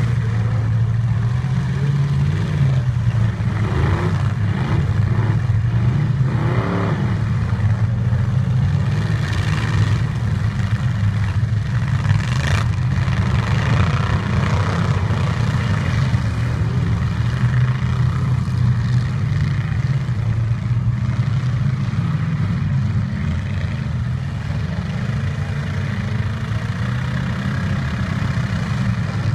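Demolition derby trucks' engines running and revving, rising and falling in pitch, with a sharp bang about twelve seconds in.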